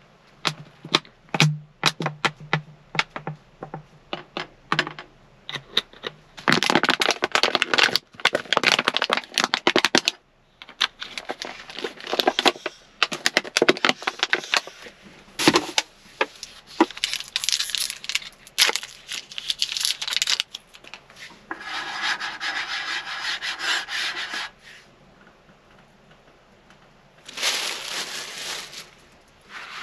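Irregular close-up handling sounds: sharp clicks and knocks, then long spells of rubbing and scraping, with a short pause near the end before one more burst.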